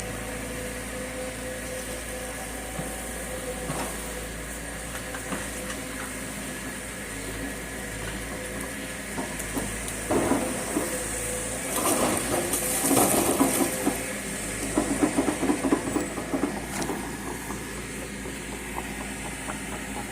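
Volvo 210 excavator's diesel engine running steadily with a hydraulic hiss, broken by several louder bursts of rough noise about halfway through and again past two-thirds of the way.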